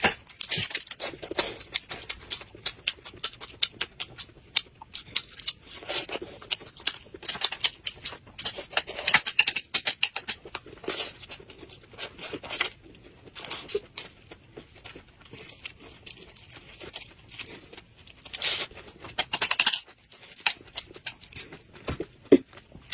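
Close-miked eating sounds: a person biting and chewing a piece of fried food, with many irregular crisp clicks and crackles. There are a couple of longer, noisier mouth sounds near the end.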